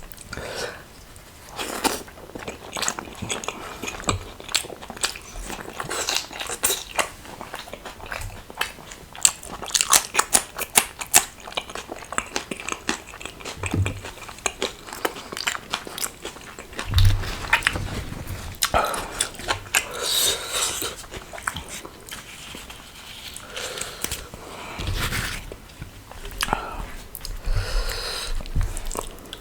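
Close-miked mouth sounds of a person eating spicy aloo dum with rumali roti: wet chewing and biting with many sharp clicks and crunches.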